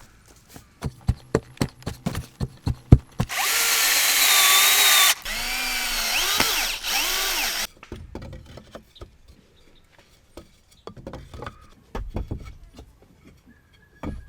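A quick run of sharp knocks, then a power tool's motor running in two bursts of about two seconds each, its whine rising and falling in pitch, followed by a few scattered faint knocks.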